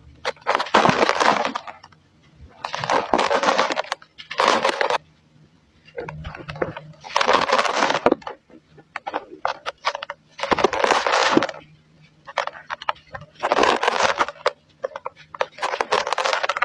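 Dry cement being crumbled, crunching and crackling in repeated bursts about a second long, with lighter crackles between them.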